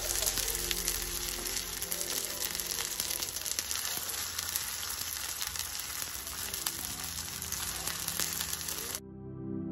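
Bread and potato cutlets shallow-frying in a hot pan: a steady sizzling hiss with frequent small crackles. Near the end it cuts off abruptly and soft ambient music takes over.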